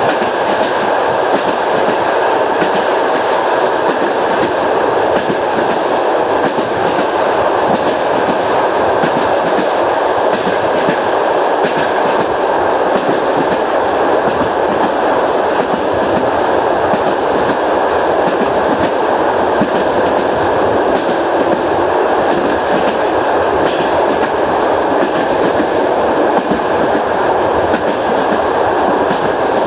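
Passenger train running along the track: a steady rumble of the carriage, with the wheels clacking over the rail joints.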